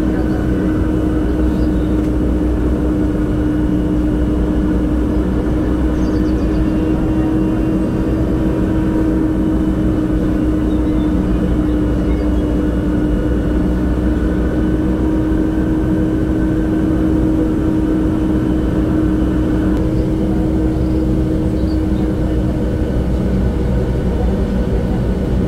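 MRT Line 3 train running between stations, heard from inside the carriage: a steady low rumble with a constant motor whine, which fades out about three-quarters of the way through.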